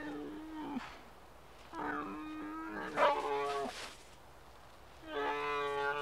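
An animal calling three times with drawn-out, pitched calls. There is a short call at the start, a longer one from about two seconds in that gets loudest near the middle, and a third starting about five seconds in.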